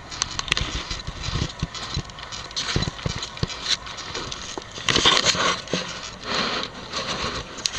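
Rustling with irregular clicks and knocks: handling noise on the microphone, with the loudest rustle about five seconds in.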